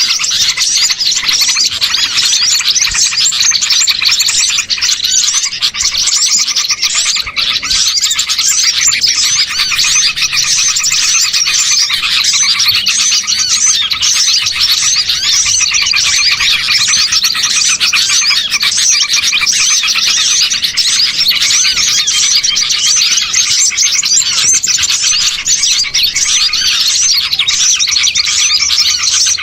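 A dense, unbroken chorus of many small songbirds chirping and twittering over one another at a steady, loud level. It is a bird-lure recording of small birds, played to call wild birds in.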